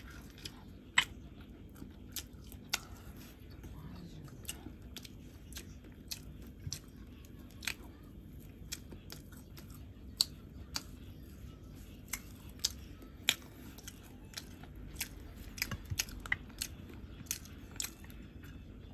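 Quiet close-miked chewing and biting, with sharp, irregular mouth clicks and smacks every half second to second or so.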